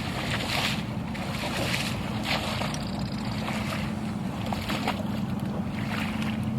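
A steady low motor hum with a held tone, under hiss and irregular swishes of water.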